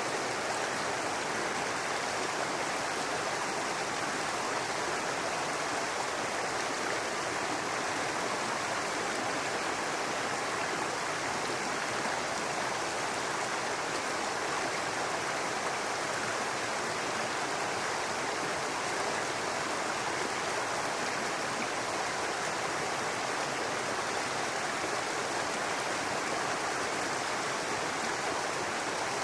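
A shallow brook running steadily over rocks, an even babbling and rushing of water with no change in level.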